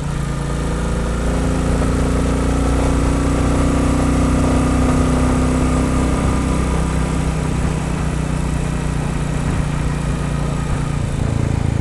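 Royal Enfield Bullet 350's air-cooled single-cylinder four-stroke engine running while the bike is ridden. The engine note rises a little, holds, then drops back about seven seconds in. The engine is new, still running in before its first service.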